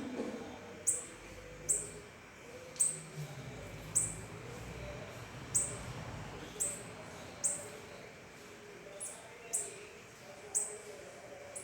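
A small bird repeating a short, very high-pitched chirp about once a second, over a faint background murmur.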